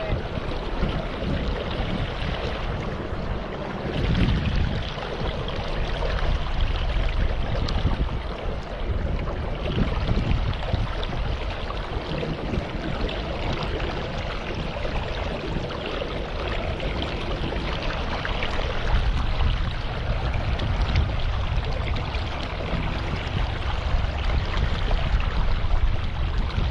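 Steady rush of moving water, with a low rumble that rises and falls.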